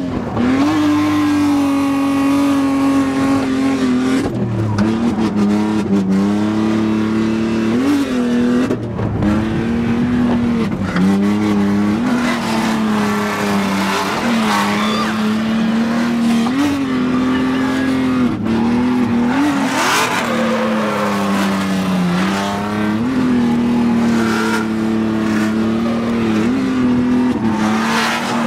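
Drift car's engine revving hard and held high in the revs, its pitch dipping briefly and climbing back every couple of seconds as the throttle is modulated through a drift run.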